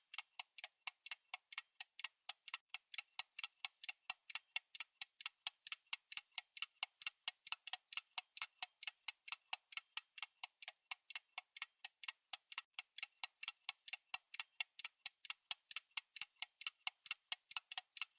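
Clock-style ticking sound effect of a countdown timer: crisp, evenly spaced ticks, several a second, at a steady rhythm.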